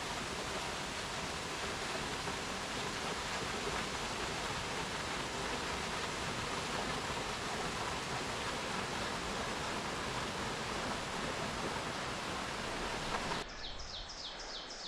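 Steady rush of Crabtree Falls' cascading water, an even hiss with no breaks. Near the end it cuts off abruptly to a quieter scene with a quick run of short, high chirps.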